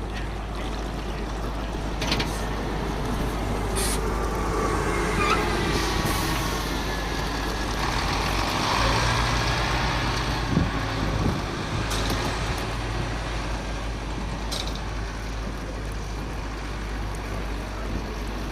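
A heavy vehicle's engine and running noise swelling and fading, with faint squealing and several short air hisses typical of air brakes.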